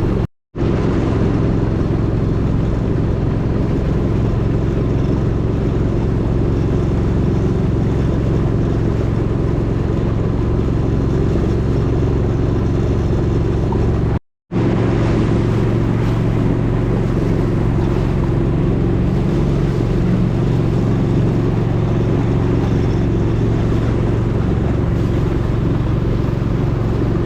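Long-tail boat engine running steadily at cruising speed: a loud, even hum. It cuts out twice for an instant.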